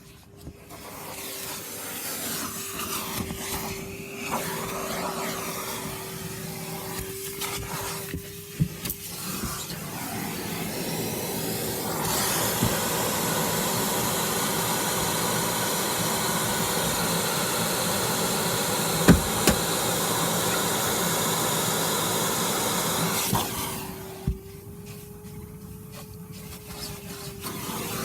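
Vacuum cleaner running with a steady whine while its nozzle scrapes and rubs over the car's interior. From about twelve seconds in, a louder even rush of sucked air takes over for around ten seconds, with a single sharp click partway through.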